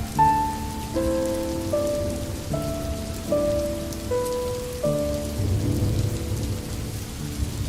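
Steady rain with a low rumble of thunder swelling about five and a half seconds in, under a slow melody of held notes that change pitch about once a second.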